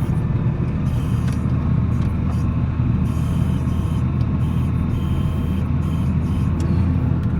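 Volvo L70C wheel loader's diesel engine running steadily under load while plowing snow.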